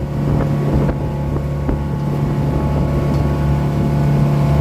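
Motorboat engine running at a steady cruise: a constant drone with a strong low hum and a stack of steady higher tones.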